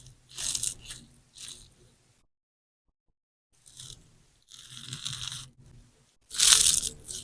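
Sponge slime, a large sponge soaked with clear slime, squeezed and pressed by hand, giving crackling, crunchy squishes in about five separate bursts with silent pauses between them. The loudest squeeze comes near the end.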